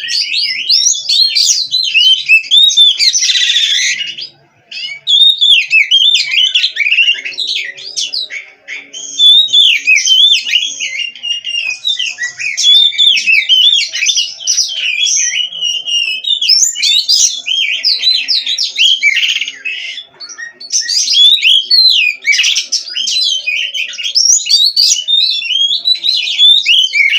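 Oriental magpie-robin (kacer) singing nonstop: a rapid, varied stream of loud whistled and warbled phrases, with a short harsh rasp about three seconds in and a brief pause just after.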